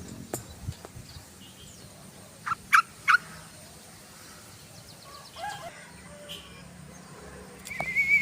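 Sooty-headed bulbul calling: a quick run of three loud short notes about two and a half seconds in, a few softer notes later, and a wavering trilled note starting near the end.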